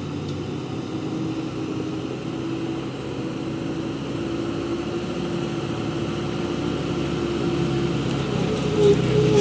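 Heavy truck engine running steadily, its hum growing gradually louder.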